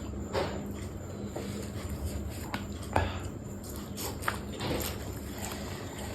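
A person eating spicy seafood papaya salad: chewing with irregular wet lip smacks and clicks, the sharpest about three seconds in.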